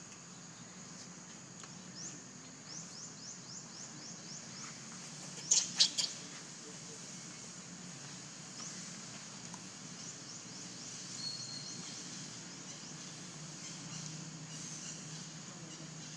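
Outdoor natural ambience: runs of quick high bird chirps, about five a second, over a steady high background. Two sharp clicks about five and a half seconds in are the loudest sounds.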